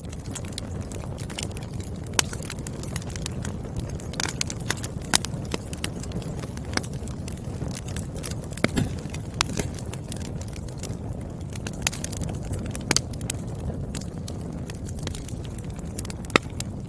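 Wood fire burning, with irregular sharp crackles and pops from the burning logs over a steady low rumble of flames.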